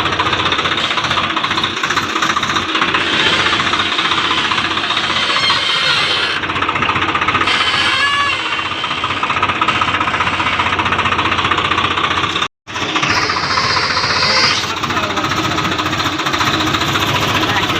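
Swaraj 735 XT tractor's diesel engine running under load with a loud, steady clatter. It cuts out for a split second about twelve and a half seconds in.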